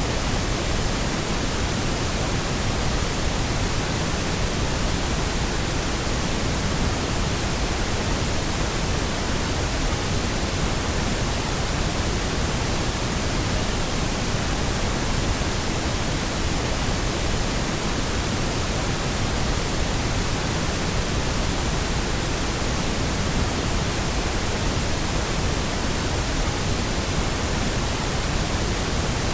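Steady pink noise: an even, unchanging hiss spread across all pitches, used as a sleep and sound-masking aid.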